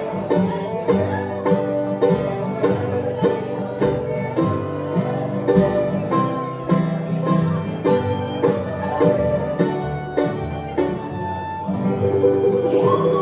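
Live bluegrass band playing an instrumental passage without vocals: banjo, acoustic guitar and fiddle, with a steady run of plucked notes.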